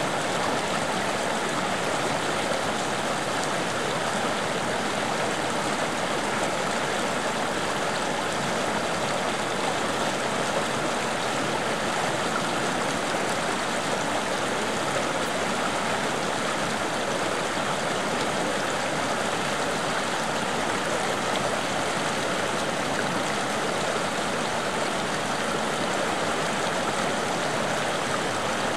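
Running water in a stream or small river, a steady rushing and burbling that does not change.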